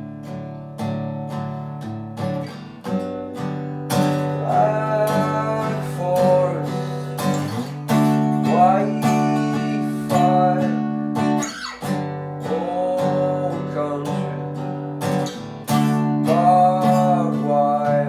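Song instrumental break: acoustic guitar strumming chords, with a wordless melody line gliding over it in phrases of about two seconds.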